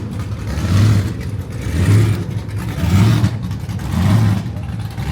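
Diesel truck engine with a hood-mounted exhaust stack, revved in repeated throttle blips about once a second. It is loud.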